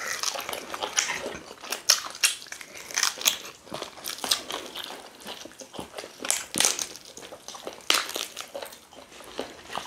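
Two people biting and chewing pieces of chicken from pepper soup, with many irregular crunching and crackling clicks.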